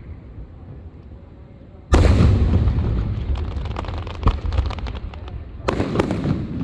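Fireworks going off: a loud bang about two seconds in, followed by a couple of seconds of rapid crackling with one sharper crack, then two more bangs close together near the end.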